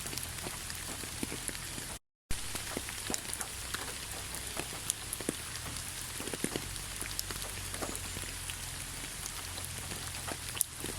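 Steady rainfall, with many separate raindrops tapping sharply on a surface. The sound cuts out completely for a fraction of a second about two seconds in.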